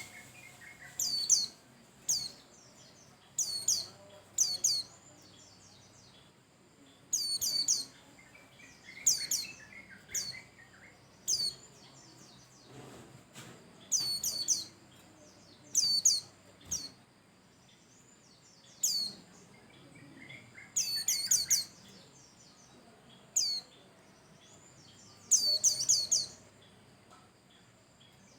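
White-eye calling: short, high-pitched chirps that drop steeply in pitch, in quick clusters of one to four notes repeated every second or two, with a faint softer warbling between them.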